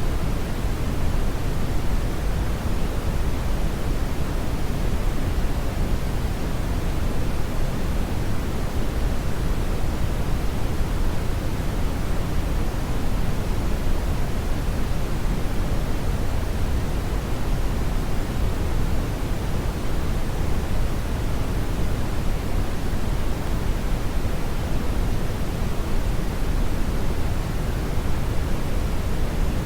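Steady brown noise: a dense, unchanging rush weighted heavily toward the low end, like a deep rumble of wind or distant surf.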